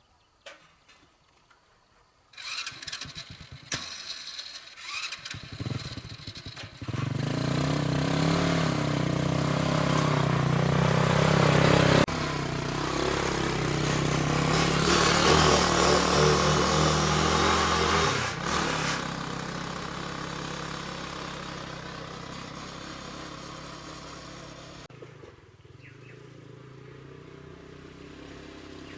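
Motorcycle engine sputtering for a few seconds, then catching and running, revving up and down before it settles to a lower, steadier sound.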